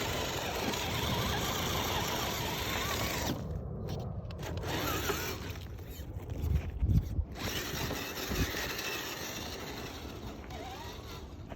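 Axial SCX10 III Jeep Gladiator RC crawler driving: its electric motor and gear drive whirring steadily, easing off a couple of times. A cluster of low thumps comes in the middle.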